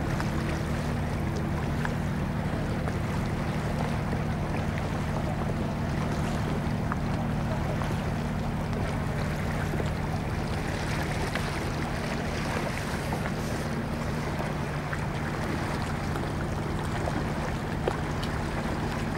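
A motorboat's engine running at a steady speed, a constant hum under the rush of water and wind.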